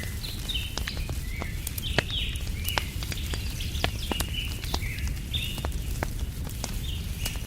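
Wood fire crackling with frequent sharp pops over a steady low rumble, while a bird calls again and again in short, high chirps, some of them falling in pitch.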